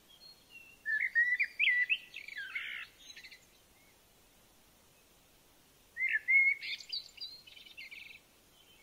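A songbird singing two phrases a few seconds apart. Each phrase is a couple of seconds of sliding whistled notes followed by quick, rapid notes.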